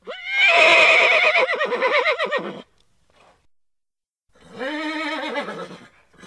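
A horse whinnying: a loud neigh that rises sharply at the start and then quavers for about two and a half seconds. After a pause comes a second, shorter neigh, lower in pitch.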